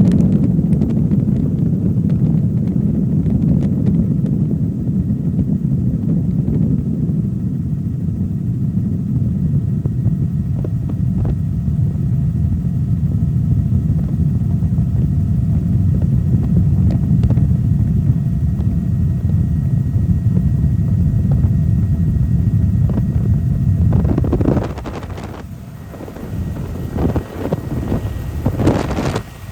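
Helicopter in flight: a steady, dense low rumble with wind on the microphone. About 25 seconds in, the rumble drops and turns uneven, with gusts of wind buffeting the microphone.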